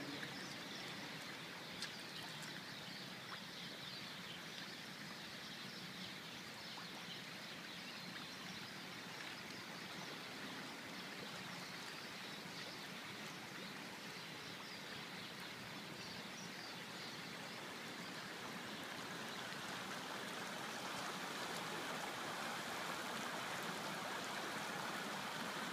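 Monsoon rain falling, a steady hiss of rain and running water that grows a little louder over the last several seconds.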